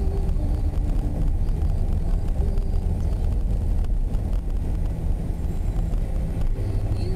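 Steady car driving noise heard from inside the cabin: a low, even rumble of engine and tyres on the road.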